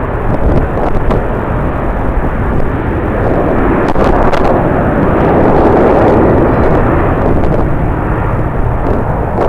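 Jet airliner passing, its engine noise swelling to a peak about six seconds in and then easing, with strong wind rumbling on the microphone.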